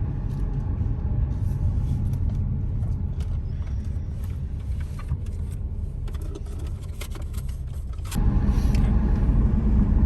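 Steady low rumble of a car driving, with scattered light clicks; it steps up louder about eight seconds in.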